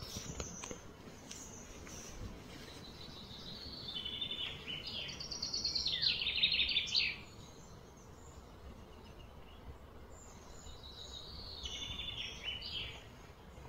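A bird singing outdoors in two bouts of rapid trilled, stepped phrases: a louder bout about four seconds in and a softer one near the end, over a faint steady background hum.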